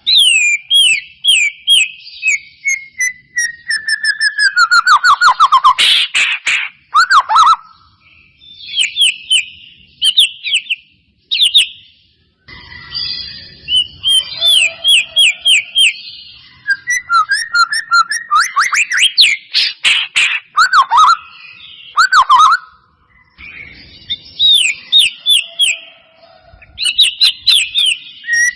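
White-rumped shama (murai batu) singing a loud, fast, varied whistled song of descending glides, rapid trills and sharp repeated notes, in phrases broken by brief pauses.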